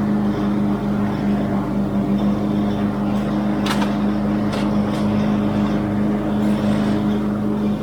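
A small petrol engine running steadily at constant speed, with a few short sharp clicks or knocks about halfway through.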